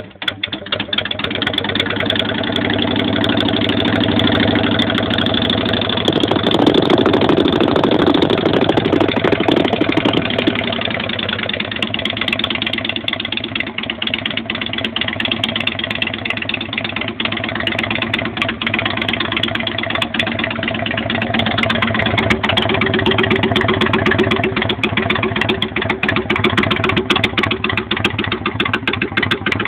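Honda Shadow VT600's V-twin engine idling through empty, baffle-less exhaust pipes, just after starting. It runs a little louder for about five seconds from six seconds in, then settles back to a steady idle.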